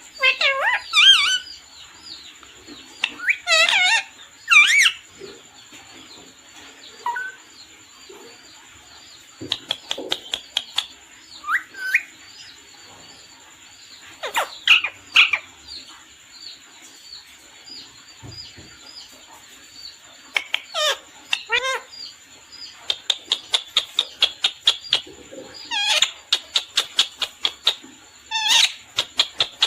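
Parrot chirping and calling in short bursts of quick rising-and-falling calls and squawks. It breaks into rapid runs of sharp chirps about two-thirds of the way through and again near the end.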